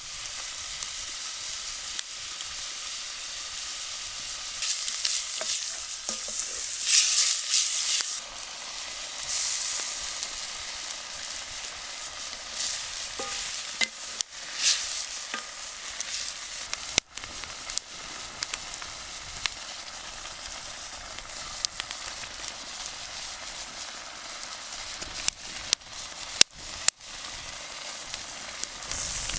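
Food sizzling as it fries in a pan while it is stirred, with a few louder surges of sizzling and some sharp knocks near the end.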